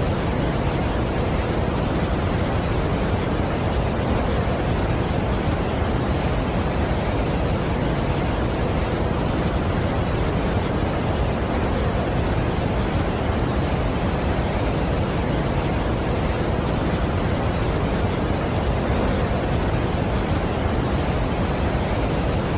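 Steady, unbroken rush of a large waterfall, an even deep noise strongest in the low range with no changes or separate events.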